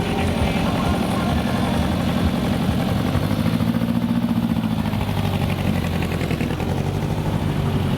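Car engine idling steadily, its pitch rising and holding a little higher for a couple of seconds around the middle before settling lower.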